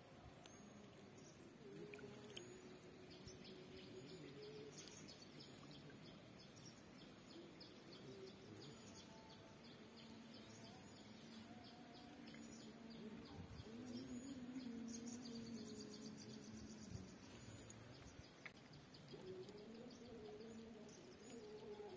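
Quiet outdoor ambience with faint bird chirping.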